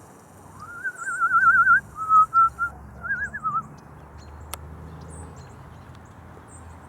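A person whistling to call a bird: a rising note into a fast warbling trill, then a few short notes and another warble, lasting about three seconds. Faint, high bird chirps and one sharp click follow.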